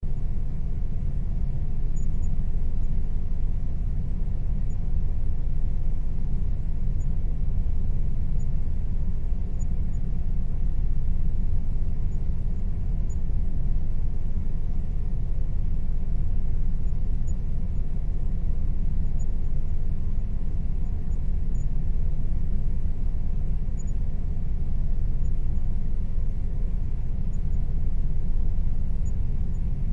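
Air conditioner running steadily: a constant low hum and rumble with a faint steady tone above it.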